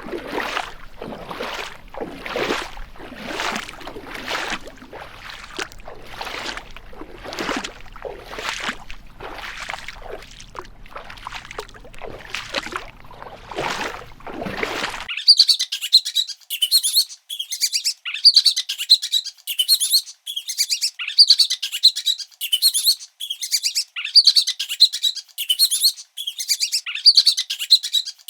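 Repeated swishing strokes, about one and a half a second, for the first half. Then a sudden cut to birds chirping rapidly and continuously in quick high calls.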